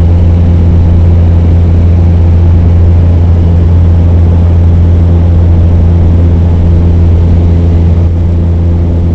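Cessna 172's piston engine and propeller running with a loud, steady drone, easing slightly in level about eight seconds in.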